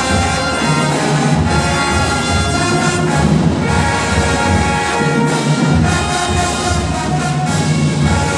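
Loud, continuous brass band music from horns and low brass, typical of a high school marching band playing for a dance routine.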